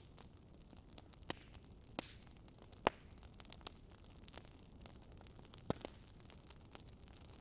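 Fire crackling: irregular sharp pops and snaps over a faint steady hiss, the loudest pop just under three seconds in.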